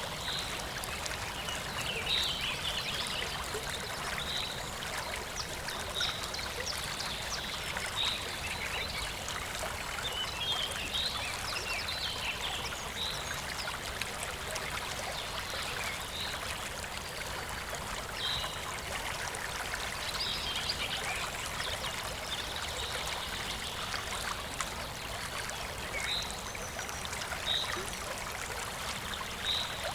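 Clear shallow stream flowing and trickling, a steady rushing of water. Over it, a short high chirp repeats about every two seconds, with a busier run of chirping around the middle.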